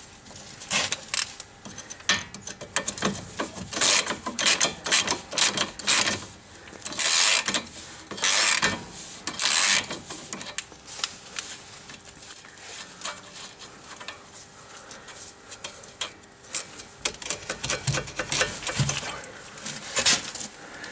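Wrench turning a nut off a car's sway bar link: repeated metallic clicking and rasping in bursts as the nut is worked loose, with the link's shaft held by a second wrench.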